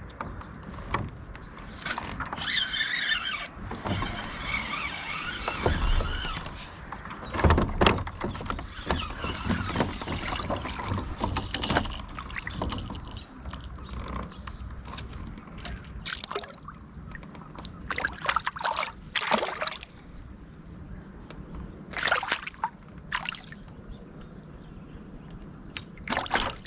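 Handling sounds on a plastic fishing kayak: irregular knocks and clicks against the hull, with brief bursts of water splashing, the loudest early on and a few heavier thumps later.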